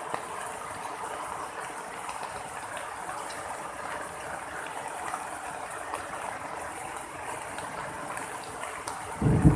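Heavy rain falling steadily. Near the end a sudden loud, low rumble of thunder breaks in.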